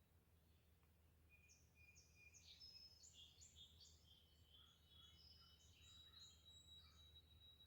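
Small songbird singing faintly: a quick run of short, varied high chirps starting about a second in, over a thin steady high-pitched tone and a low steady hum.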